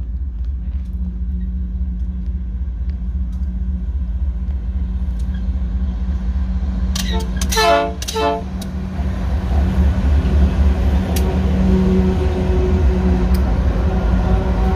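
Heavy freight train hauled by GE-design diesel-electric locomotives (ES44ACi/AC44i type) approaching with a steady low rumble that grows louder as the lead units come past. The locomotive horn sounds in three short blasts about halfway through.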